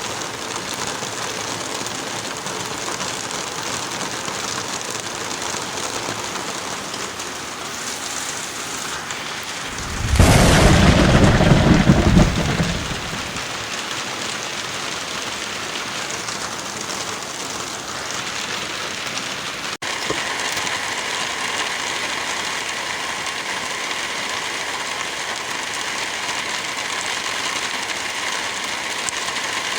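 Steady heavy rain hissing, with a clap of thunder about a third of the way in that rumbles for around two seconds. Near two-thirds through the sound drops out for an instant and the rain carries on with a slightly different texture.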